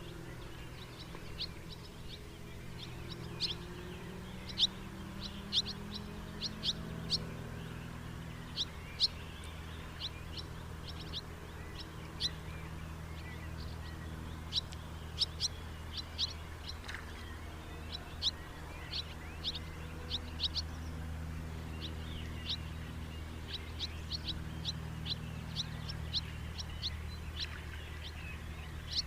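House martins giving short, high chirping calls in irregular runs of several at a time, over a steady low rumble.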